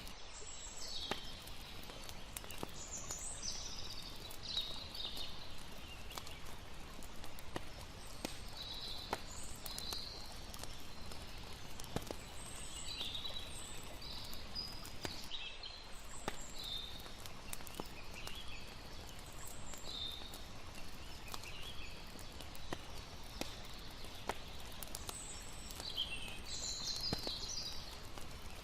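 Mixed campfire night ambience: a fire crackling with sharp scattered pops over a steady low hiss, with irregular short high chirps throughout.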